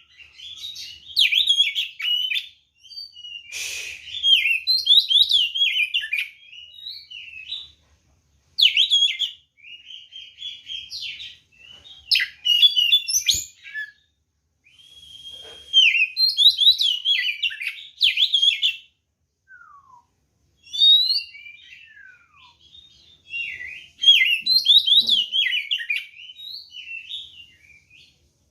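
Oriental magpie-robin (kacer) in full, vigorous song. It sings fast runs of varied chirps, trills and sliding whistles in phrases a few seconds long, broken by short pauses. The song is the loud, combative kind that provokes other magpie-robins to answer.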